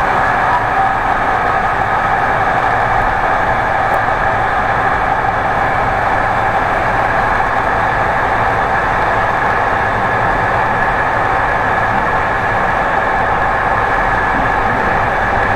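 Steady running noise of an Intercity passenger train at speed, heard from inside the coach: an even rush of wheels and air with no distinct clicks.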